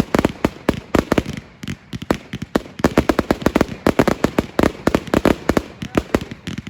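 New Year's Eve fireworks bursting: rapid, irregular bangs, several a second, thinning briefly about one and a half seconds in.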